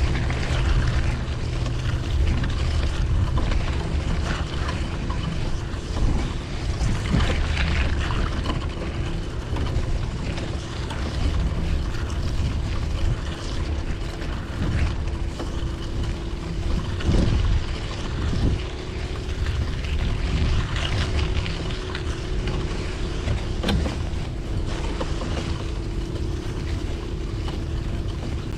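Street traffic heard from a moving bicycle: a steady engine hum with vehicles passing, and wind rumbling on the microphone.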